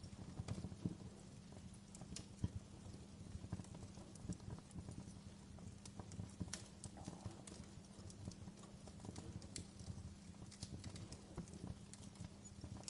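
Wood fire crackling in a fireplace: irregular sharp pops and snaps of varying strength over a low, steady rumble of the flames.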